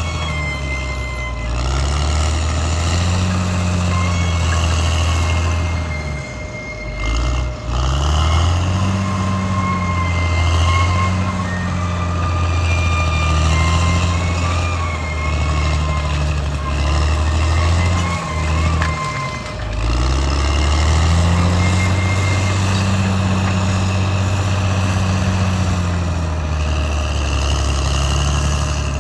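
Caterpillar D6R XL bulldozer's diesel engine working hard, its pitch rising and falling with the load, with brief drops in engine speed about six seconds in, around twenty seconds and at the end. A thin high whine runs over the engine.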